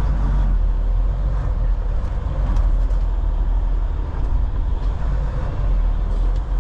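Semi truck's diesel engine running with a steady low rumble as the truck moves slowly, with a few faint light ticks.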